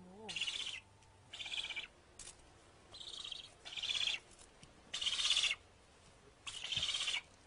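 Young northern bald ibises calling: a series of hoarse, rasping calls, each about half a second long, coming roughly once a second.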